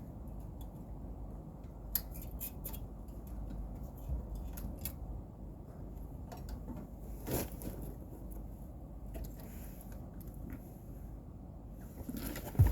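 Scattered light clicks and snips of hand tools at work on an air-conditioner outdoor unit, over a low steady rumble, with a sharper knock near the end.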